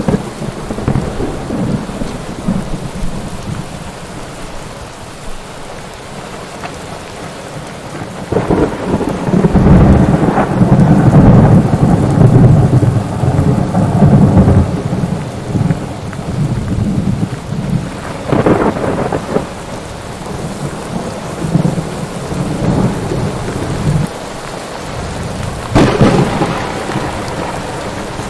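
Thunderstorm: steady rain under rolling thunder. A long low rumble swells up about a third of the way in and lasts several seconds, and two sharper claps of thunder break out later.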